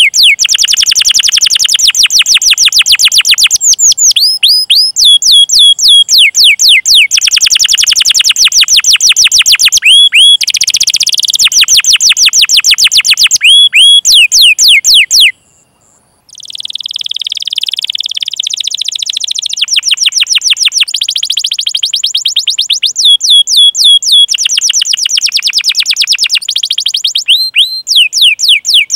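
Domestic canary singing a loud, fast rolling song: long trills of rapidly repeated, down-sweeping chirps, broken by a short silence about fifteen seconds in.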